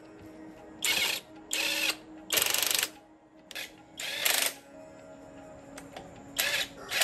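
A tool working in short, repeated bursts, about seven of them, each lasting under a second, with faint background music underneath.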